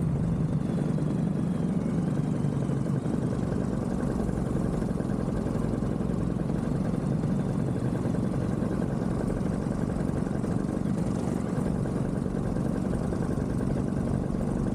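Vittorazi Moster 185 paramotor engine, a single-cylinder two-stroke, running steadily in flight with an even, unchanging drone.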